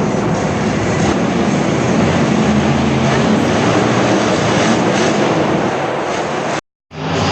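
Monster truck engine running loud and steady, with a dense, heavy noise. It cuts out completely for a fraction of a second near the end, then comes back.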